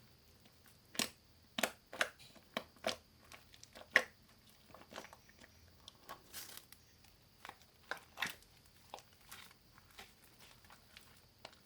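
Slime topped with clay and soothing gel being squeezed and poked by hand, giving off irregular sharp clicks and pops, with the loudest about four seconds in.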